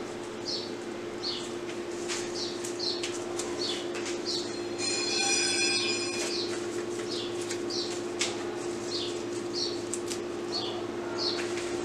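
A small bird chirping over and over, one to two short high chirps a second, with a brief held higher tone about five seconds in. A steady low hum runs underneath.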